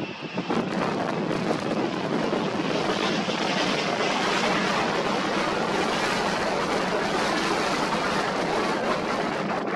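Jet aircraft engines making a steady, even rushing noise, with a brief dip right at the start.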